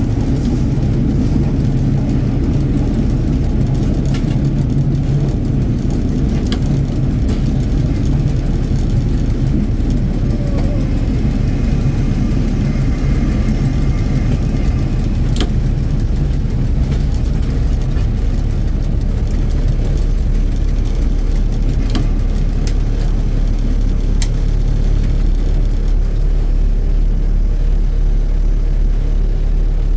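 Diesel train running steadily along the track, heard from the front of the train: a constant low engine rumble with wheel and rail noise and a few faint clicks.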